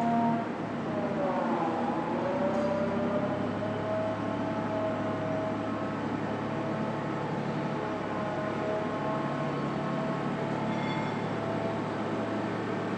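Electric train running, with a steady whine and hum and a brief dip in pitch near the start.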